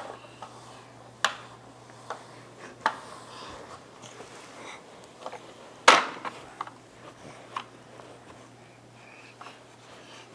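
Toy trucks being handled and knocked about: a series of separate sharp knocks and clatters, the loudest about six seconds in.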